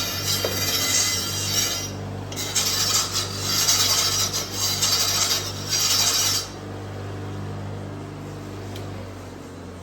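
A motor-driven cleaning wheel scrubbing caked wood debris off the sides of a TCT saw blade, a harsh scraping hiss over a steady motor hum. The scraping stops about six and a half seconds in, leaving the motor hum, which slowly fades.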